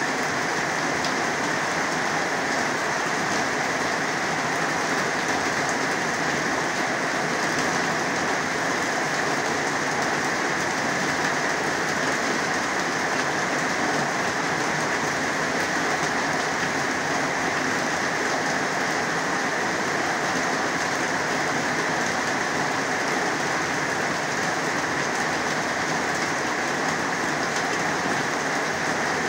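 Heavy rain pouring down, a steady, even hiss of falling drops.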